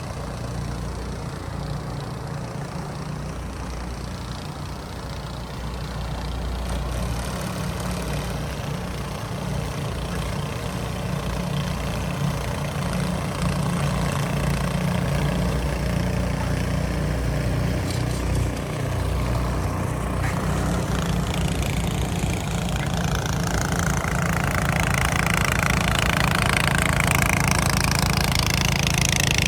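An engine running steadily with a low rumble. It grows louder through the second half, and a rising hiss swells over the last several seconds before dropping off at the end.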